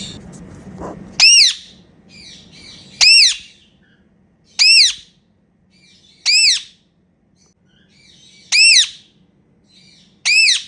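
Indian ringneck parakeet giving six loud, high-pitched calls at fairly even intervals of about one and a half to two seconds, each rising and then falling in pitch, with softer chattering between them.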